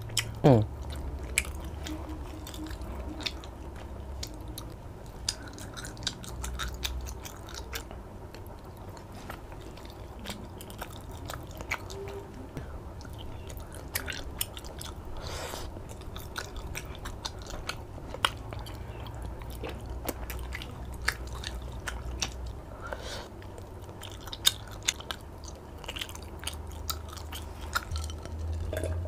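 Close-miked chewing of soft, sticky durian dodol, with many small wet mouth clicks and smacks. Near the end, a drink is swallowed from a glass.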